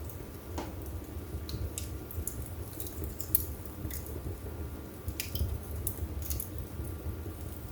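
Wood fire burning in a fireplace: a steady low rumble of the flames with scattered sharp crackles and pops from the burning logs, several coming close together a little past halfway.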